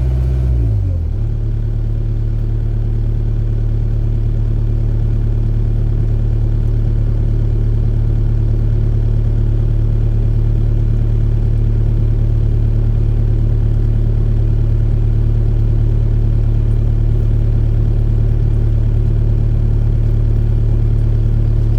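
Excavator's diesel engine running. Its speed drops about a second in, then it holds a steady lower drone.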